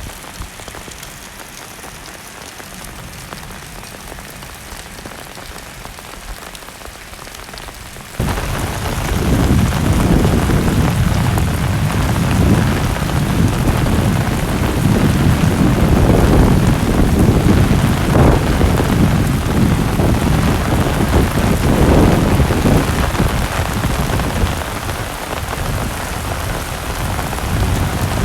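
Heavy rain falling steadily. About eight seconds in it suddenly becomes much louder and fuller, with a deep rumble under the downpour.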